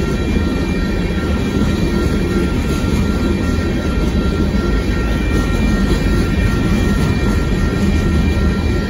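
Gravel hopper cars of a Union Pacific freight train rolling past close by: a loud, steady rumble of wheels on rail, with a steady high ringing over it.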